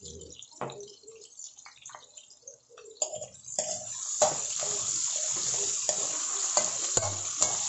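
Potato chunks frying in corn oil in an aluminium wok. The first three seconds are quiet apart from a few light clicks. Then a metal spatula knocks and scrapes against the wok as the potatoes are stirred, and a steady sizzle rises and holds, with the spatula clicking through it.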